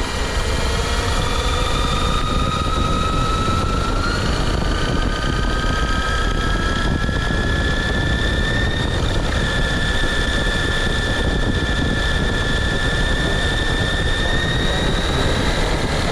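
Brushless electric motor and drivetrain of a JLB Cheetah RC car with an Apex 4076 motor, whining as the car drives. The pitch rises over the first several seconds as it speeds up, holds level, and climbs a little again near the end, over a steady rushing noise.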